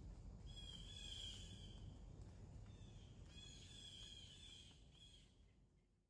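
Two faint bird song phrases, each about a second long, over a low steady rumble; the sound fades out near the end.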